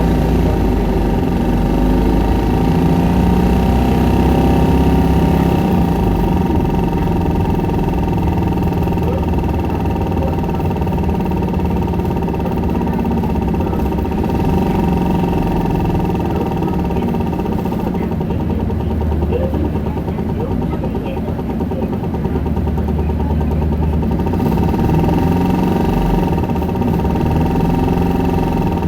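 Isuzu Erga city bus's diesel engine, heard from inside the cabin, driving under way, its pitch rising and falling as it accelerates and changes gear, with a steady high whine throughout.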